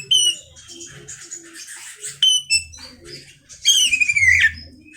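Oriental magpie-robin (kacer) singing: short sharp whistled notes, then a loud run of falling, warbled notes near the end.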